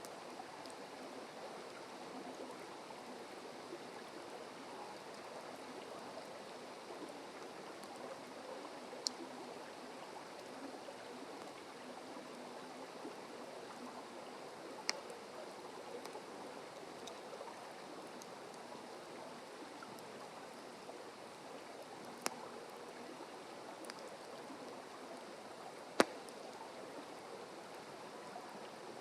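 Wood campfire crackling: a few sharp pops from the burning wood, the loudest near the end, over a steady rushing noise.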